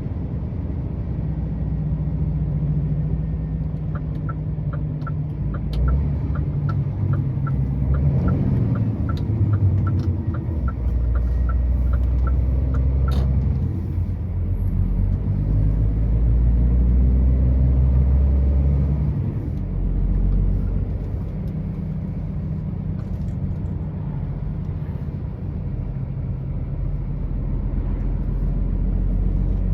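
Truck engine running steadily, its low drone shifting in pitch as it drives. For several seconds a regular ticking comes about three times a second, and a single sharp click follows shortly after.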